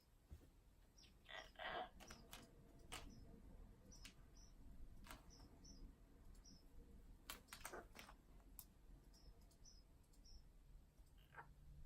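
Amazon parrot making faint clicks and scratching sounds with short, soft high chirps, and a couple of brief louder rasping sounds about a second and a half in and again about halfway through.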